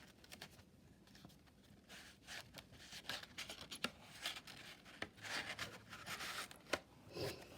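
Paper pages of a handmade journal being turned and handled: soft rustling and rubbing of paper with a few light taps, the longest rustle a little after the middle.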